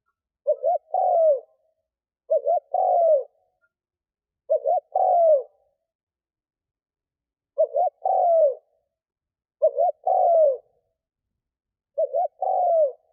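Decoy spotted dove cooing: six phrases about two seconds apart, each two short notes followed by a longer falling coo, with silence between them. This is the call used to lure wild doves.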